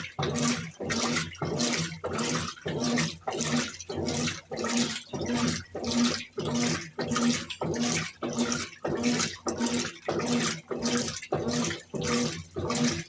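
Brastemp 17 kg top-loading washing machine agitating a load in water: rhythmic sloshing strokes about twice a second, each with a low motor hum.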